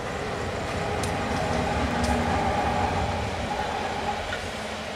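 Two MRS AC44i diesel-electric locomotives passing close at high speed, their engines rumbling with a steady whine over it; the sound peaks about two seconds in. The ore hopper cars then roll by on the rails, with a few sharp wheel clicks.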